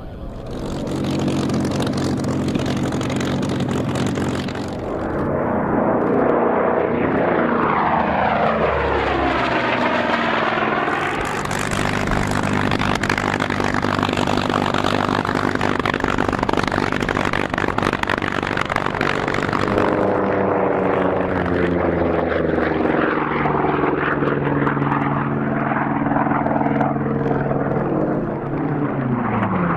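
Unlimited-class piston-engine racing planes running the course at high power, passing by with the engine pitch sliding down as each goes past, twice.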